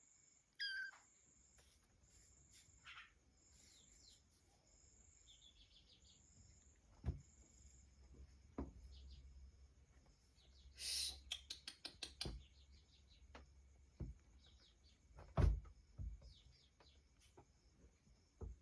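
Faint, scattered high-pitched chirps and short whistles from small birds, with a quick flurry of clicks about eleven seconds in. A few soft thumps break in, the loudest near the end.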